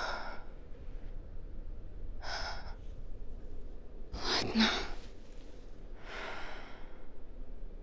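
A woman breathing heavily: four audible breaths about two seconds apart, the third the loudest, with a brief catch of voice.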